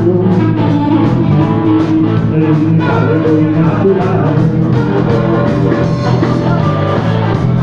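Blues-rock band playing: guitar over bass with a steady beat.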